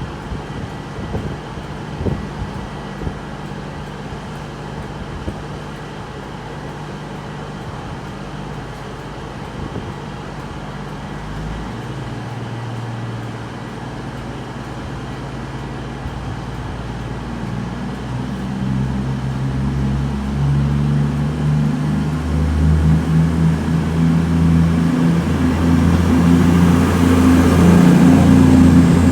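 CrossCountry Class 221 Voyager diesel train pulling out of the station. Its underfloor diesel engines run steadily at first, then rev up and grow steadily louder through the last third as it departs.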